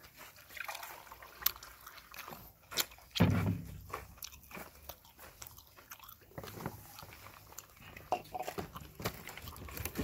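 Close-up eating sounds from a man eating by hand: chewing and mouth smacks with irregular small clicks, and a brief louder low sound about three seconds in.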